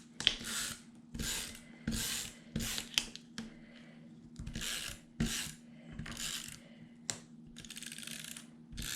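Paper being worked by hand: about ten short scraping strokes in quick succession, with a brief ratcheting rattle near the end.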